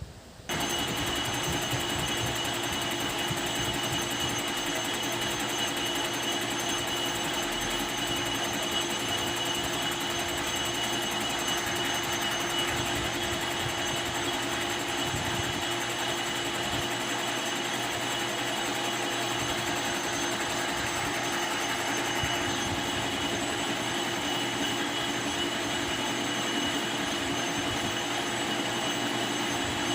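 Metalworking machine running steadily, with a constant whine over a dense noise of cutting. It starts abruptly about half a second in.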